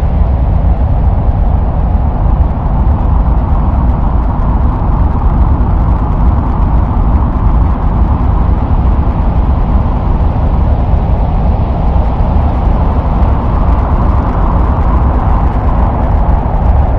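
Deep, steady rumbling noise with no breaks or rhythm, played as the sound of Mars: wind in its thin atmosphere as picked up by a spacecraft.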